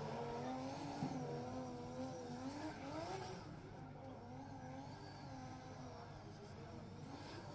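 Nissan S14 drift car's engine revving, its pitch rising and falling again and again under throttle as the car slides around to warm up its tyres.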